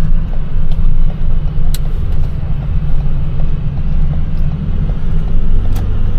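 Small box truck driving along, heard from inside the cab: a steady, loud low rumble of engine and road noise.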